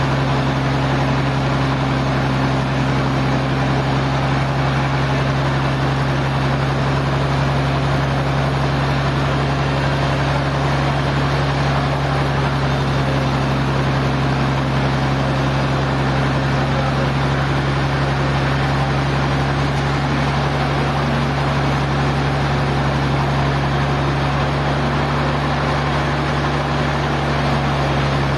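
Sawmill machinery running steadily, a constant low motor hum under an even mechanical noise, with no change in pitch or level.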